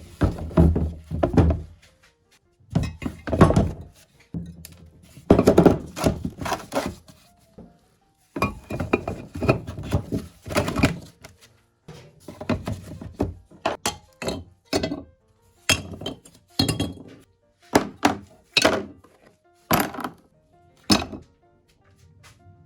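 Irregular series of loud knocks and thuds, some with a short metallic clink, as metal pump parts are struck and handled.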